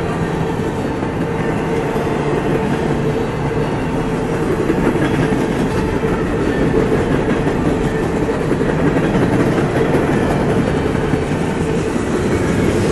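Freight cars of a CSX freight train rolling past: a loud, steady rumble of steel wheels running on the rails.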